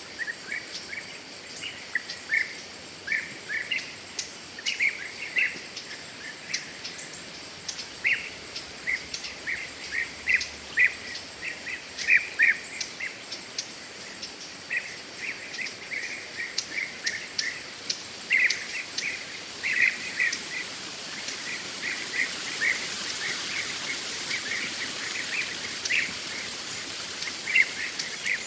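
Birds chirping in forest: short calls in quick clusters, over and over. About two-thirds of the way through, a steady hiss of rain builds up beneath them.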